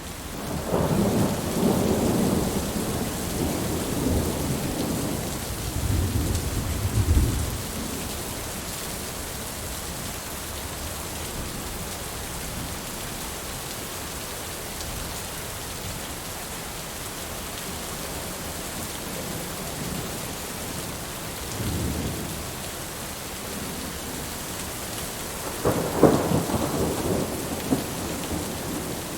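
Steady rain with rolling thunder: a long rumble through the first seven seconds or so, a short one about twenty-two seconds in, and the loudest clap and rumble about twenty-six seconds in.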